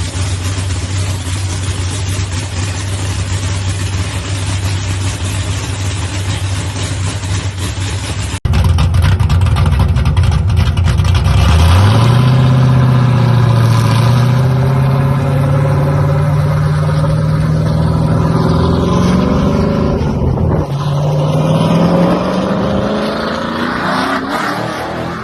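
A muscle car's engine running at a steady, rough idle. After a sudden cut, a louder car accelerates hard, its engine pitch climbing, dropping briefly at a gear change, then climbing again.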